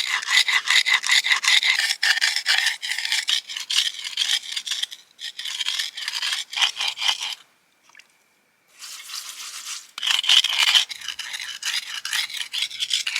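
Slate blade being ground back and forth on a stone with wet sand, in rapid, even strokes: a fine grind, not a hard one. The strokes pause for about a second just past the middle, then carry on.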